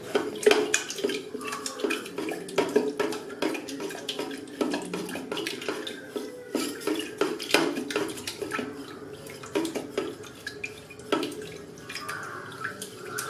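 A ladle stirring thin grain-and-milk porridge inside a switched-on electric kettle, with rapid, irregular clinks and scrapes against the kettle's sides.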